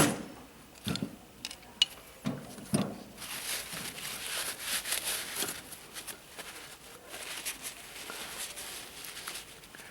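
Hand work on a removed car starter motor: a few sharp knocks in the first three seconds, then several seconds of uneven scraping noise.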